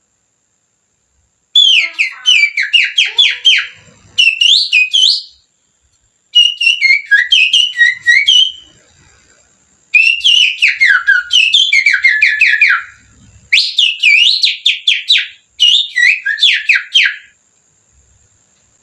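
A person whistling through the little finger in imitation of an oriental magpie-robin's (kacer's) song. It comes as six quick phrases of rapid, mostly falling notes, with short pauses between them.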